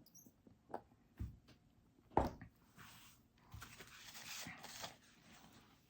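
A light knock, then a couple of seconds of soft rustling as takeaway food packaging is handled.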